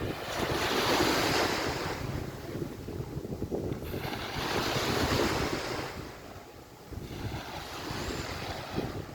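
Surf washing onto the beach in three swelling surges a few seconds apart, with wind rumbling on the microphone.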